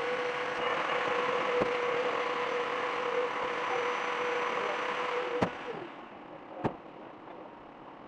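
A car wash machine running steadily with a whine, which stops with a click about five and a half seconds in and winds down. A lower background follows, with a single sharp knock.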